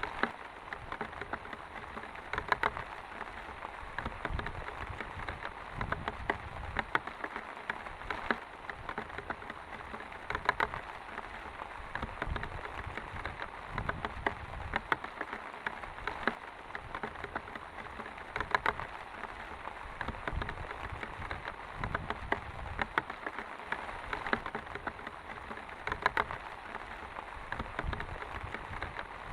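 Steady rain falling, a dense patter of drops with frequent louder drips standing out.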